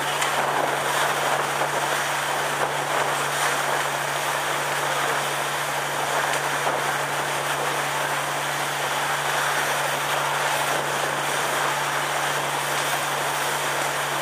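Sightseeing boat's engine running at a steady cruise, heard on board as a constant low drone under an even rushing noise.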